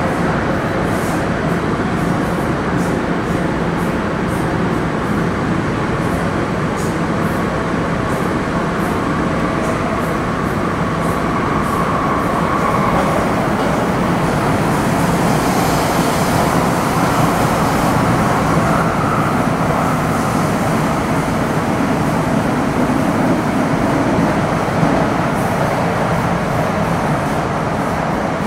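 MTR Metro Cammell M-Train EMU (CM-Stock car C132, GEC GTO chopper traction) running between stations, heard from inside the car as a steady rumble. A faint high whine comes in about a third of the way through and again about two-thirds in.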